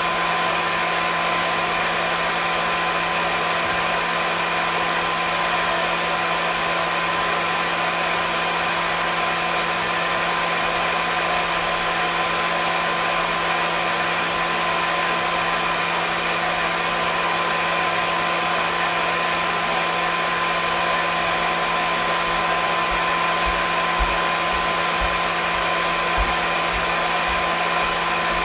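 Hair dryer running steadily, a constant rush of air with a steady motor whine over it.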